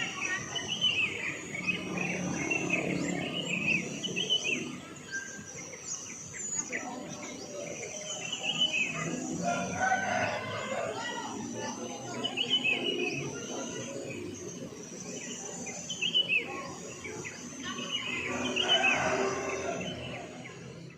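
Small birds chirping over and over, with a rooster crowing now and then, over a steady high-pitched hum.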